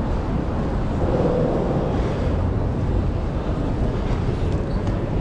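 Busy city street ambience: a steady, low rumble of traffic with general street noise.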